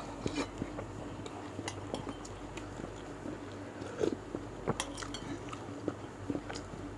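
Close-miked chewing and wet mouth sounds of someone eating meatball soup with rice, with scattered light clicks and a few spoon clinks; the louder ones come about four and five seconds in.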